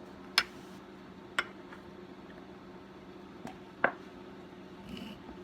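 Metal hand tools clinking: four sharp metallic clicks spread over a few seconds, over a steady low hum.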